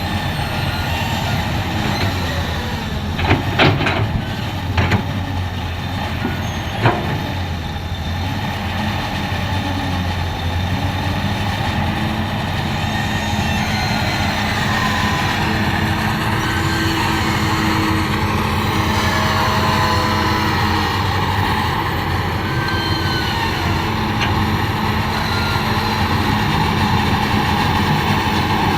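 Komatsu PC200 excavator's diesel engine running steadily, with a few sharp metal clanks about three to seven seconds in. From about halfway, a steady higher tone and a few short whistling glides join the engine sound.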